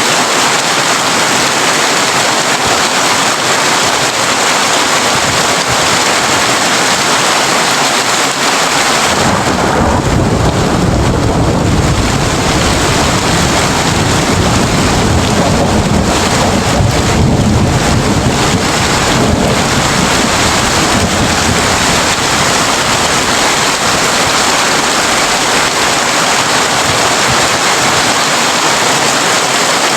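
Heavy rain drumming steadily on a tin roof. About nine seconds in, a long low roll of thunder builds under the rain and dies away roughly twelve seconds later.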